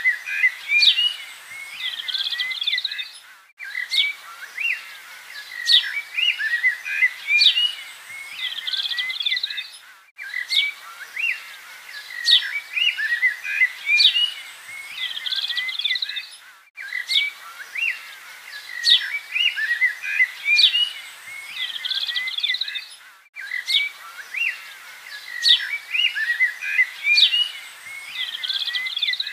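Birdsong soundtrack: many birds chirping and calling, as a recording that loops about every six and a half seconds, with a brief cut between repeats.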